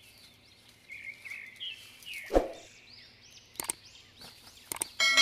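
Small birds chirping in short rising and falling calls, with a few light clicks and a sharp thump about halfway through. Near the end a loud metallic clang rings on as a bell-like ding.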